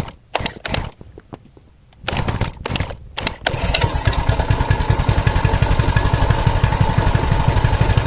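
Mini bike's small engine starting about two seconds in after a few knocks, then idling steadily with an even rapid beat and no rise in revs. The throttle return spring has been taken off, and with it removed, twisting the throttle does nothing.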